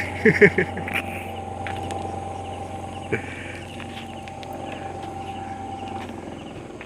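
Washing machine motor running with a steady hum and a whine that cuts off about six seconds in, after the newly refitted motor has been made to turn freely again. A short vocal sound comes at the start and a single knock about three seconds in.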